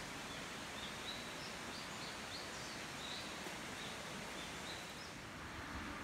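Small birds calling in woodland: a string of short, high chirps over a steady background hiss.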